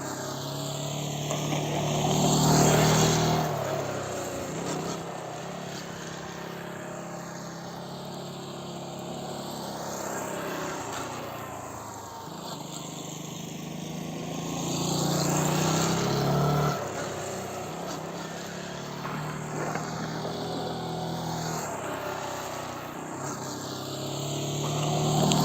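Motorcycle engine circling a practice track, passing close about two seconds in and again around sixteen seconds, then fading into the distance between passes and approaching again at the end.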